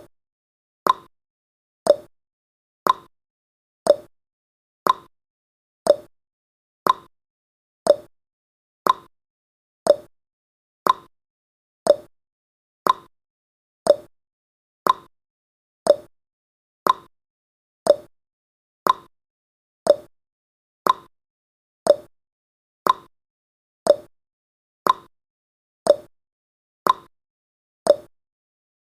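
Clock-style tick-tock sound effect of a countdown timer: one short tick each second, alternating higher and lower in pitch.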